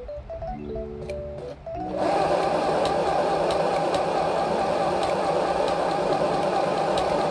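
Background music with plucked notes, then about two seconds in a YASM-505A mini household sewing machine starts running, loud and steady.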